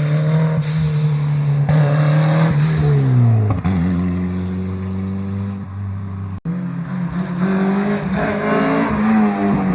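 Loud car engine passing close. Its note holds steady, then falls in pitch about three seconds in as it goes by. After a momentary break, an engine note climbs again near the end.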